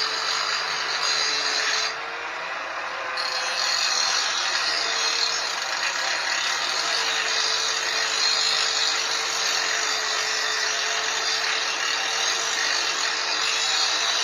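Angle grinder running against a steel motorcycle frame: a steady motor whine under the hiss of the disc on metal, easing off briefly about two seconds in and then bearing in again.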